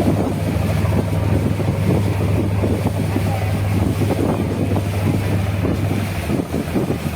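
Abra water taxi's diesel engine running steadily under way, with wind buffeting the microphone and water rushing past the hull. The engine hum drops off about six seconds in.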